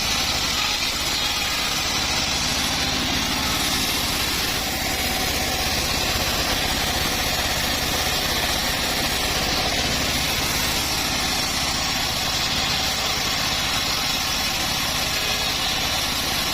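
The engine of a homemade bandsaw sawmill running steadily at an even speed.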